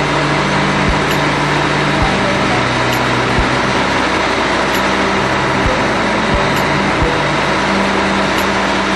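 Steady, loud industrial machinery noise: a dense rushing sound with a low hum, and a few short low thuds at irregular intervals.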